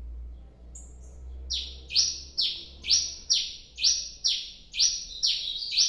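A cravina songbird singing: a run of loud, evenly repeated notes, each sweeping down in pitch, about two a second, beginning about a second and a half in.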